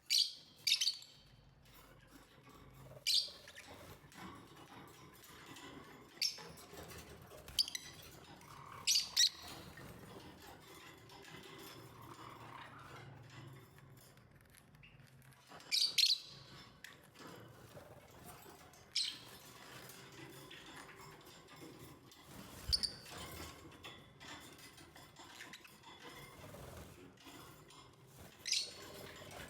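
Lovebirds giving short, sharp, high chirps at irregular intervals, about a dozen in all, some in quick pairs, with quiet between.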